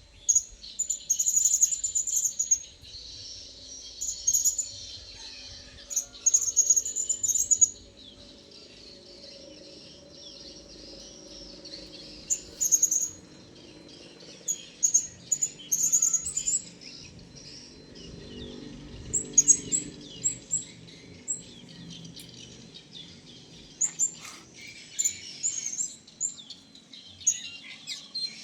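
Blue-crowned hanging parrots (serindit) giving short, high-pitched, shrill chirps in repeated clusters, with a faint low drone underneath.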